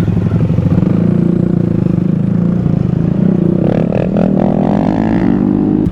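Small mini-motorcycle engine running under way on a rough trail, its pitch climbing as it accelerates over the last couple of seconds. A few knocks and rattles come around four seconds in.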